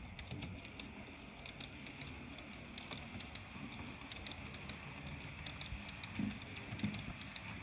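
Model train running along the layout track: rapid, irregular clicking of its wheels over the rail joints over a steady hum, with two louder low knocks near the end.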